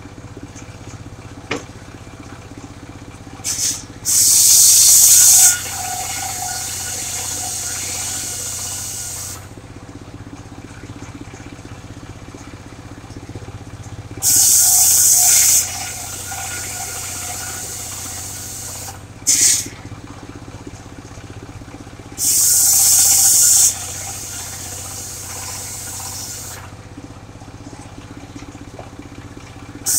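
Engine-driven mobile circular sawmill cutting sengon wood. The power unit runs steadily throughout, and three times the blade goes into the log with a loud, hissing scream lasting a second or two. Each scream is followed by several seconds of quieter, steady cutting.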